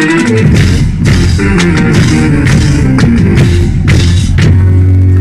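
A band plays loudly: a pitched melody over repeated drum strikes, then a low bass note held through the second half.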